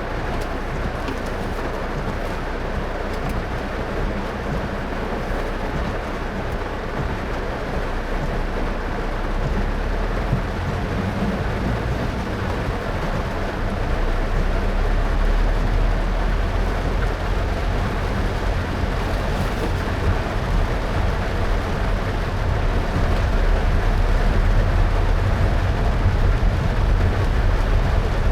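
A car driving in heavy rain: steady tyre and road noise on a wet road with a low rumble, mixed with the hiss of rain. The noise grows louder about halfway through and again near the end.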